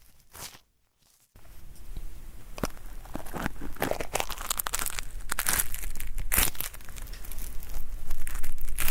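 ASMR ear cleaning: an ear-cleaning tool scraping at a microphone's ear with a dry, papery crackle, made to sound like stubborn earwax being worked loose. A brief silence about a second in, then dense scratching strokes that grow louder toward the end.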